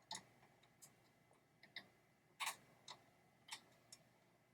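Faint, irregular light clicks and taps, about seven over four seconds, from small metal parts and hand tools being handled on a pinball trap door and diverter mechanism.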